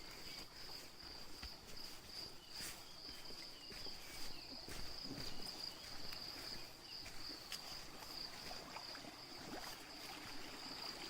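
Faint steady high-pitched trilling of crickets or other forest insects, unbroken throughout, with a few soft crackles scattered through it.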